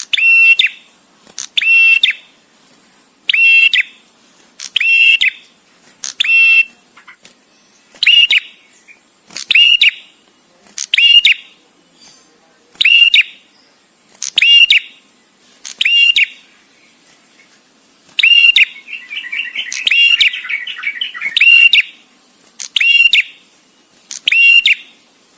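Male prenjak tamu (a prinia) calling: short, sharp, high notes repeated about every one and a half seconds, broken about three quarters of the way through by a longer chattering trill of about three seconds.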